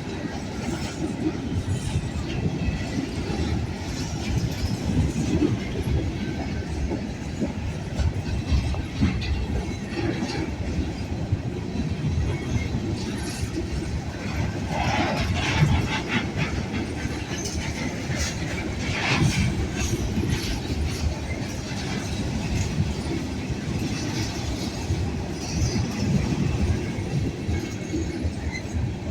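Freight cars of a long train rolling past: a steady low rumble with irregular clatter of wheels over rail joints, and brief higher wheel screeches about halfway through and again a few seconds later.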